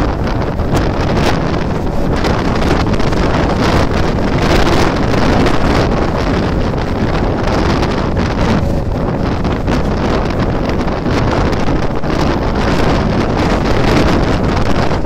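Wind buffeting the microphone held out of a Mumbai suburban electric train's open doorway, over the steady running noise of the train's wheels on the rails at speed, with scattered short clatters.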